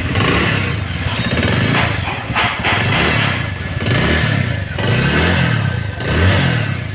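Bajaj Avenger 220 Cruise's single-cylinder engine running through a newly fitted replacement silencer, with the throttle blipped in short revs that rise and fall about once a second in the second half. The exhaust now sounds clean and without leaks, the cracked, leaking silencer having been replaced.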